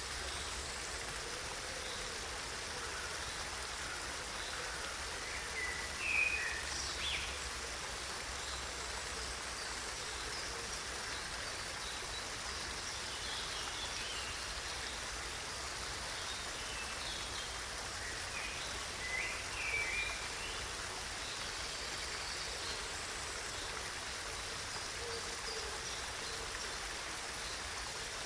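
Steady rush of flowing water, with short bird chirps about six seconds in and again around twenty seconds.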